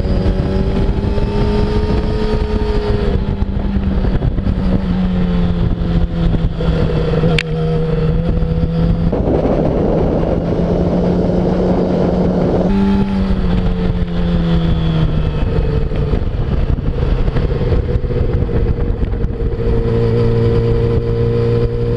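2008 Yamaha R6's inline-four engine running at a steady high note under way on track, with only small rises and dips in pitch, heard from a bike-mounted camera. Around the middle, a few seconds of louder rushing noise cover it, and near the end the engine note drops lower as the bike slows.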